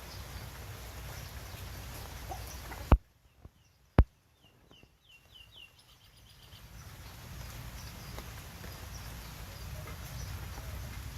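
Steady background noise broken by two sharp clicks about a second apart, followed by a quick run of short, high bird chirps before the background noise returns.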